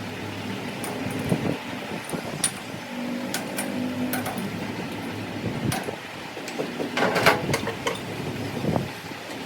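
Steady background hum with scattered sharp clicks and knocks of work in a mechanic's shop, a burst of them about seven seconds in.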